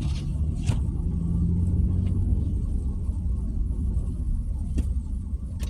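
Steady rumble of engine and tyres heard from inside a car driving on snow-covered roads, with a low engine hum and a few light clicks.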